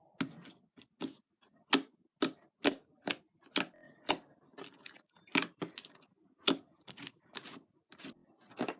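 Sticky, liquid-starch slime being squeezed and pulled between the hands, giving an uneven run of sharp clicks and pops, about two a second.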